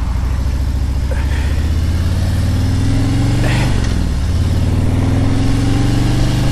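Motorcycle engine accelerating away, its pitch climbing, falling sharply at a gear change a little over halfway through, then climbing again in the next gear.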